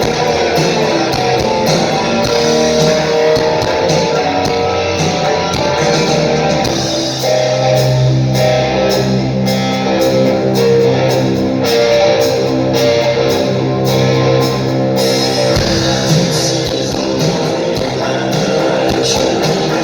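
Live rock band playing: electric guitars over drums, with regular drum and cymbal hits and a loud sustained low bass note through the middle.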